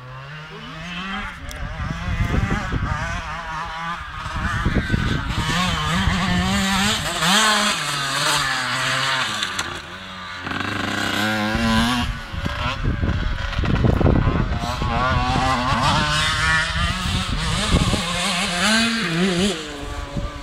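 Several motocross bikes racing, their engines revving up and down as they go through the gears, with the sound dipping briefly about halfway through.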